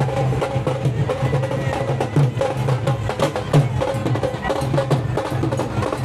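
Live procession music dominated by rapid, dense percussion strikes over a steady low hum.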